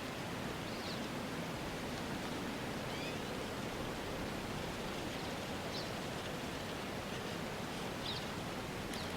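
Steady outdoor ambience: an even hiss of noise like wind or rustling, with about five faint, short, high chirps scattered through it.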